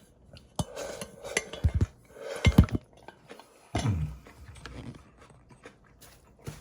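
Eating utensils clinking and scraping against a bowl of mixed noodles, in three louder bursts about a second in, around two and a half seconds and around four seconds, with sharp clicks between them.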